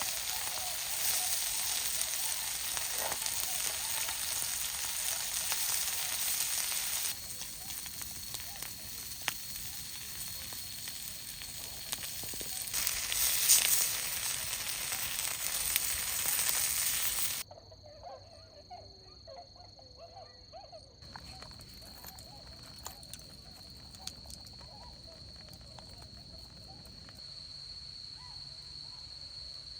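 Food sizzling in a hot pan, with jumps in level where the scene is cut. About two-thirds of the way through it stops, and a quieter stretch follows with swans calling on the lake and a steady high tone.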